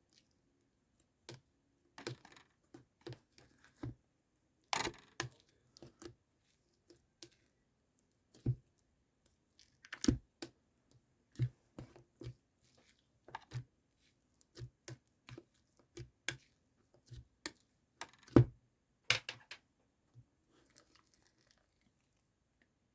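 Irregular clicks and taps of small objects being handled, some with short scratchy, crinkly tails.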